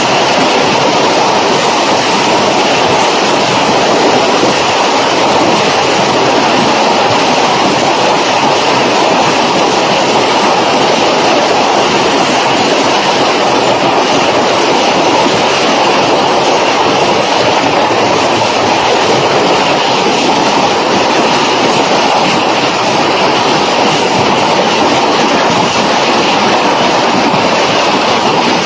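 Hail pelting down in a heavy hailstorm: a loud, steady, dense rattle of countless hailstone impacts.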